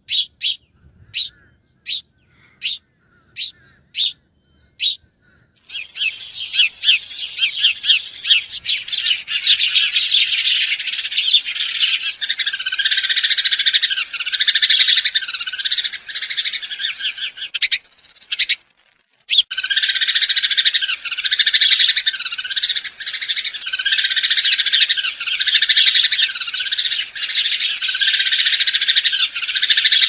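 Birds chirping: first a string of sharp, evenly spaced chirps, about two a second. About six seconds in, a dense, steady chorus of high chirps and trills takes over and continues, broken only by a brief dropout about two-thirds of the way through.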